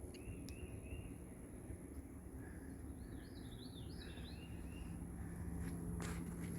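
Birds calling: a series of short, evenly spaced chirps and a run of quick falling notes in the middle, faint over a low outdoor rumble. A faint steady low hum comes in during the second half.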